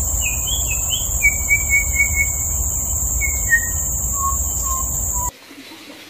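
White-rumped shama singing a phrase of clear whistled notes: a few quick warbled notes, then a run of five even repeated notes, then slower single notes stepping down in pitch. A steady high-pitched insect drone runs underneath, and both stop abruptly about five seconds in.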